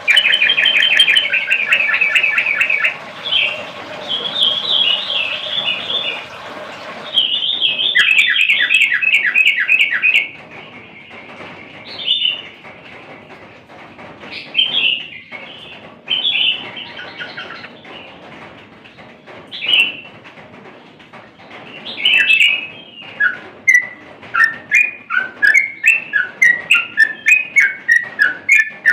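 A bird singing: fast trilled phrases of rapidly repeated notes, then separate short calls with gaps between them, and near the end a quick regular run of short notes, about two or three a second.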